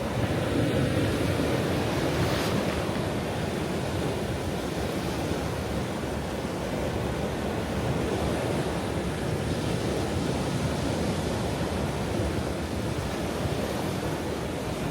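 Ocean waves breaking and washing on a shore, a steady rushing surf with gentle swells in loudness and a brief brighter splash about two and a half seconds in.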